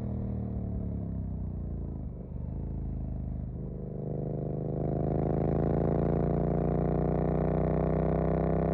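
Suzuki GSX-8S parallel-twin engine breathing through a Jeskap EVO aftermarket exhaust. For the first few seconds the revs sink slowly off the throttle. About four seconds in, the revs start climbing steadily and grow louder as the bike accelerates.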